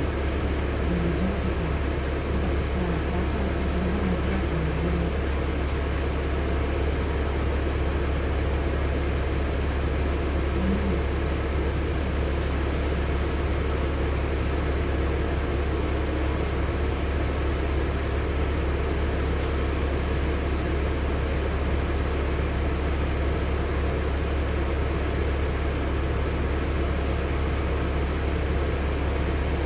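Cabin of a LiAZ-6213.65 articulated city bus: a steady low engine drone under an even wash of road and running noise.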